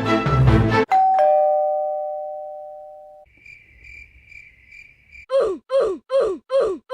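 Music cuts off and a two-tone doorbell chime sounds once, a high note then a lower one, fading over about two seconds. A faint pulsing high tone follows, and near the end a rapid series of identical falling-pitch calls repeats about three times a second.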